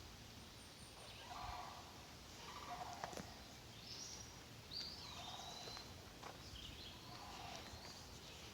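Birds calling faintly: a short, rough call repeated four times at irregular gaps, with a few higher whistled notes from a songbird around the middle.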